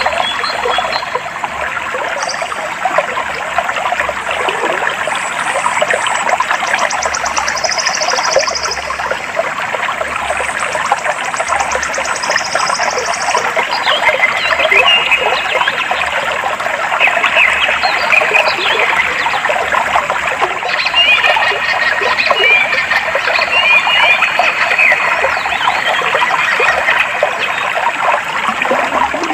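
Clear stream water babbling and trickling steadily, with birds calling over it: high, rapid buzzy trills in the first half, then many short chirps and quick downward-sliding calls in the second half.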